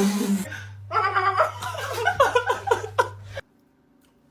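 People laughing in short choppy bursts over a steady low hum. It cuts off suddenly about three and a half seconds in.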